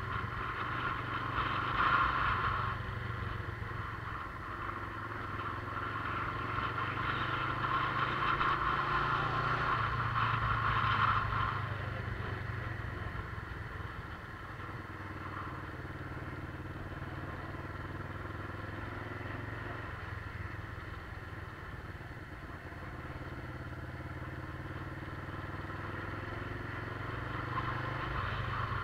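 Motorcycle engine running under way, heard from on board. The engine note rises and falls with the throttle, and it gets quieter about twelve seconds in.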